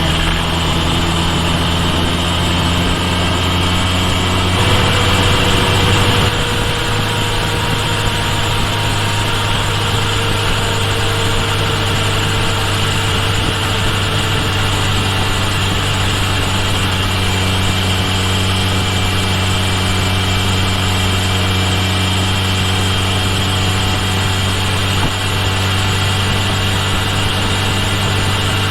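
Kawasaki Ninja H2 SX motorcycle's supercharged inline-four engine running at a steady pitch, heard from a microphone mounted at the base of the right rear turn signal. It gets briefly louder about five seconds in.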